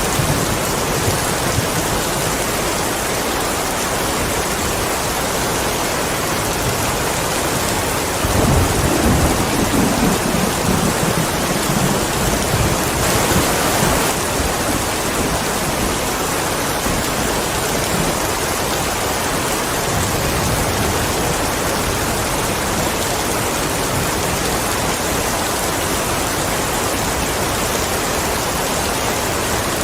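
Steady heavy rainfall, with a low roll of thunder rumbling from about 8 seconds in for several seconds and a fainter rumble later.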